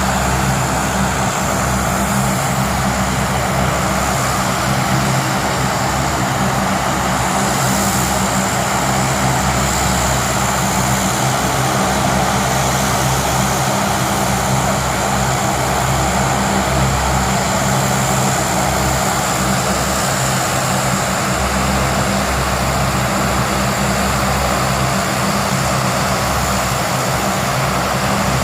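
Aircraft engines running steadily: a constant mechanical hum with low steady tones and a thin high whine that holds throughout.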